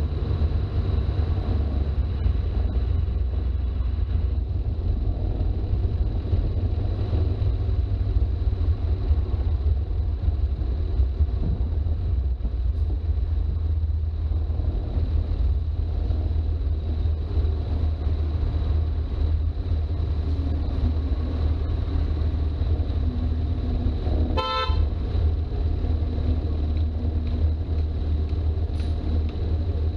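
Toyota HJ61's turbo-diesel straight-six engine and drivetrain rumbling steadily while driving. A single short horn toot sounds about three-quarters of the way through.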